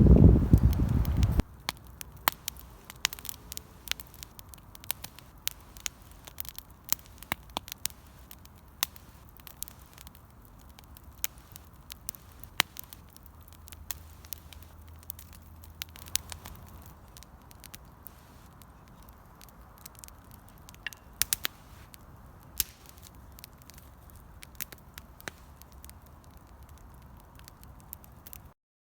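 A gust of wind buffeting the microphone for about the first second and a half, then scattered sharp crackles and clicks over a faint low rumble. The sound cuts off abruptly just before the end.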